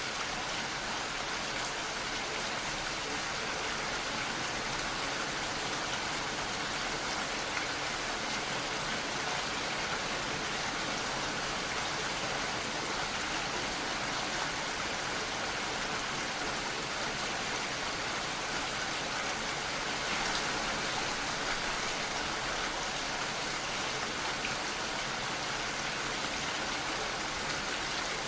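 Steady rain falling, a dense even hiss that holds the same level throughout.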